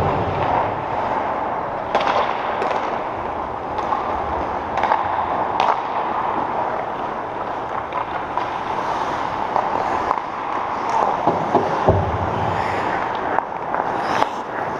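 Game play in an echoing ice arena: scattered sharp clacks and knocks, with a heavier thud about twelve seconds in, over steady background noise.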